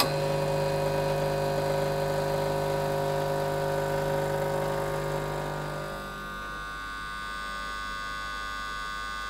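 Blue Pod LB4100 Clara espresso machine's pump running against a blind pod handle during a backwash rinse. It starts with a click, hums steadily, and about six seconds in goes quieter as it works against the closed handle.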